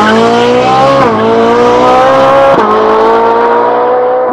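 Sports car engine accelerating hard through the gears: the pitch climbs, drops at two gear changes, about a second in and again about two and a half seconds in, and climbs again before starting to fade near the end.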